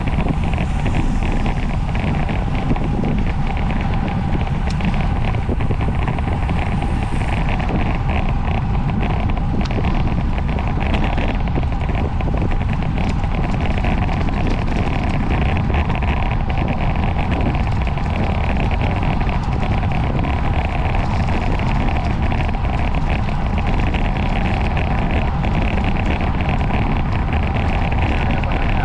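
Steady wind rushing over the microphone of a road cyclist riding at race speed in a criterium, with road and drivetrain noise underneath.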